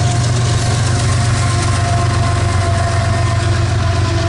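Diesel locomotive engine running steadily with a deep, even hum as the train gets under way.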